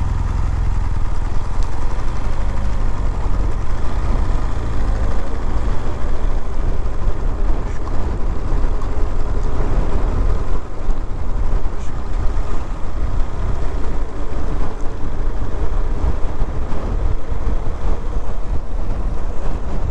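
Steady rumble of wind and engine from a BMW R1200GS boxer-twin motorcycle under way, heard through a helmet microphone.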